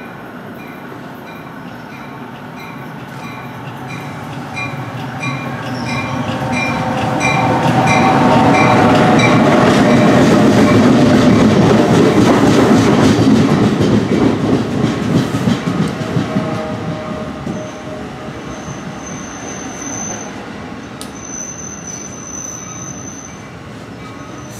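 NJ Transit commuter train of double-deck MultiLevel coaches running in alongside the platform. Its rumble swells to a peak about halfway through and then eases off, with a high squeal in the second half.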